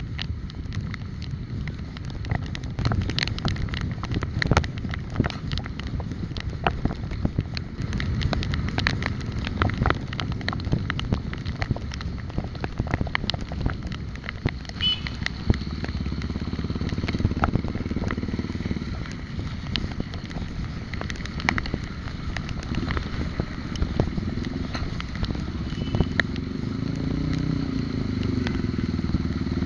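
Riding along a city street: a steady low rumble of road and wind noise, scattered with clicks and knocks. Near the end, a motorcycle engine's pitch rises and falls.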